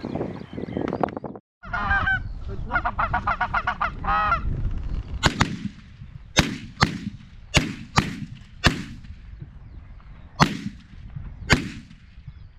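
Canada geese honking for a few seconds, followed by about eight irregularly spaced shotgun shots, each with a booming tail.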